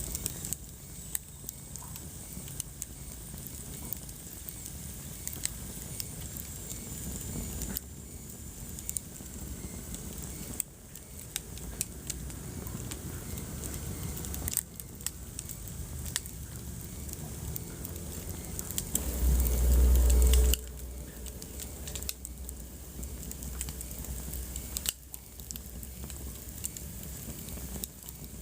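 Wood fire burning in a fireplace, crackling with many sharp pops and snaps over a steady hiss. About two-thirds of the way through, a loud low rumble lasts about a second and a half.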